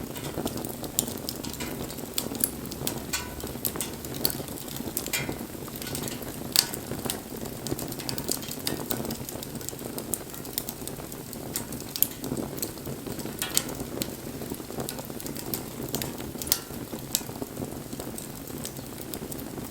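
Wood fire burning: a low steady rush of flame with irregular sharp crackles and pops from the burning wood, the loudest pops about six and a half and twelve seconds in.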